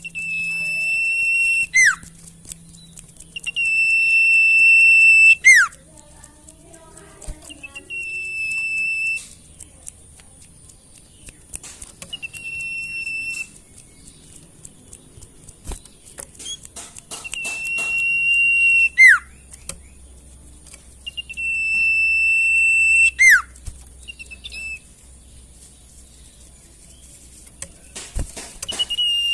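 Sirtu bird calls from a masteran training recording. Each call is a long, steady high whistle that ends in a quick downward swoop, repeated about seven times, every four to five seconds.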